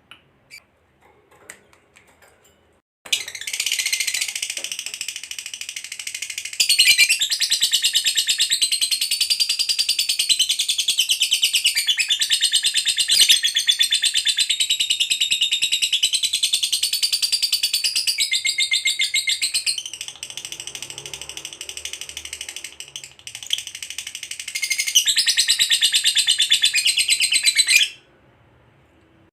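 Lovebird giving a long 'ngekek': a rapid, shrill chattering trill with wavering pitch. After a few short chirps it starts about three seconds in, runs unbroken for some twenty-five seconds, and cuts off suddenly near the end. This is the long chatter prized in contest ('fighter') lovebirds.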